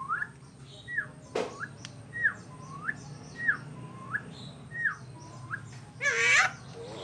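A pet mimic bird whistling a run of short swooping notes, about one and a half a second, each sliding down or up in pitch, then giving one loud harsh rasping call near the end. A single sharp click sounds about a second and a half in.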